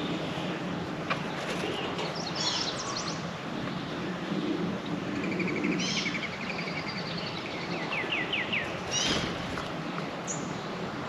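Several songbirds calling and chirping around a backyard feeder over a steady outdoor hiss. One gives a rapid trill about halfway through, and a quick run of descending chirps follows near the end.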